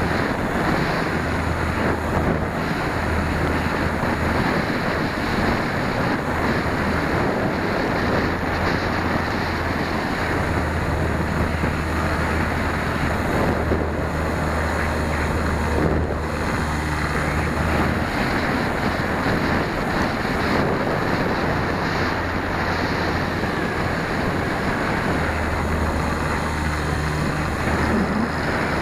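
Strong wind buffeting the small microphone of a tail-mounted 808 keychain camera on a radio-controlled Super Cub model plane: a dense, steady rush. A low steady hum runs underneath and drops out for stretches before coming back.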